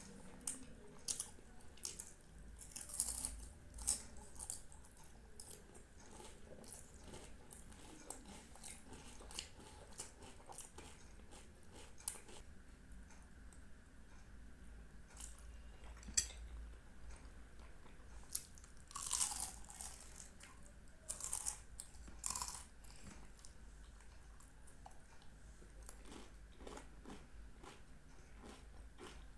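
A person chewing and biting into Indian sweets, close to the microphone: irregular wet mouth clicks and smacks, with a few louder bites and crunches about three seconds in and again about twenty seconds in.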